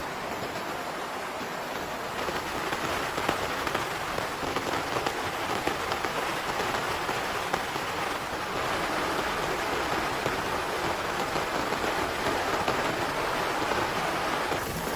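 Heavy rain falling steadily, a dense hiss of rain with many separate drops ticking on a surface.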